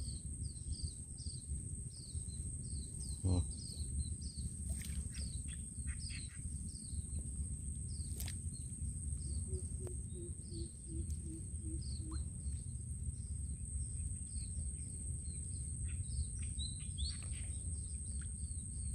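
Small birds chirping: short high calls repeated about once or twice a second, over a low steady rumble, with a couple of faint clicks.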